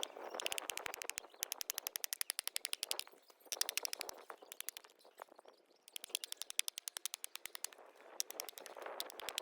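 Wood campfire crackling, with dense runs of sharp pops and snaps.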